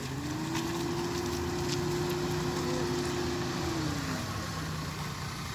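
An engine running steadily, with a whine that rises just after the start, holds level for about three and a half seconds, then falls away.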